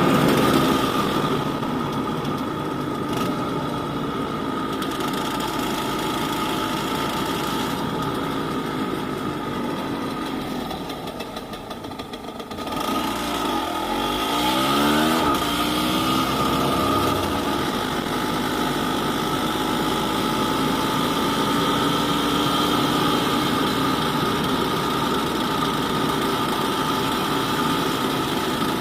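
Yamaha DT200WR's two-stroke single-cylinder engine running under way; it eases off about ten seconds in, then revs back up with rising pitch through the gears and settles to a steady run.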